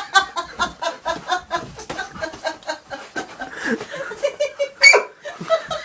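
A person laughing in a long run of short chuckles, with one brief louder burst near the end.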